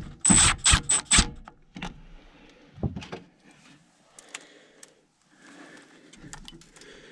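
Four or five sharp metallic clinks with a high ring in the first second and a half, as metal tools and fittings knock together, then scattered faint clicks and rustling of handling.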